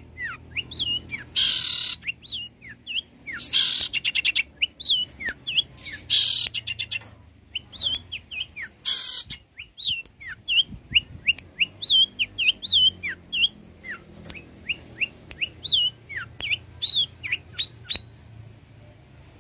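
Long-tailed shrike (cendet) singing in a rapid string of short, sharp whistled notes, broken in the first half by four loud harsh rasping bursts. The song stops near the end.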